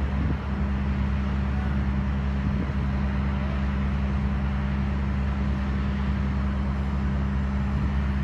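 Steady low mechanical drone, a deep hum with a broad rushing noise over it, from the machinery moving a Boeing 787 airliner under tow.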